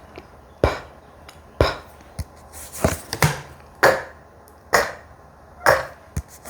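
A person's voice making short, clipped consonant letter sounds, one after another, about once a second, for phonics practice.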